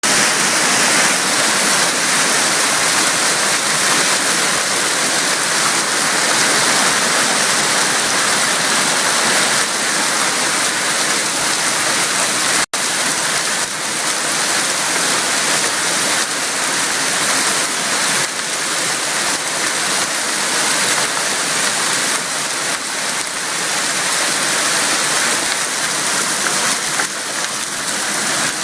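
Dime-size hail falling with heavy rain, a loud, dense, steady hiss and patter of stones and water hitting the ground. The sound breaks off for a split second about halfway through.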